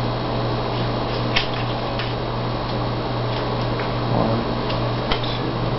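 Pokemon trading cards being handled on a table: a few light clicks and taps as cards are drawn and laid down, over a steady low room hum.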